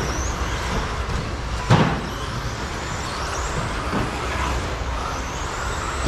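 Electric RC stadium trucks with 13.5-turn brushless motors running on the track, their motor whine rising and falling. A single sharp knock, the loudest sound, comes a little under two seconds in.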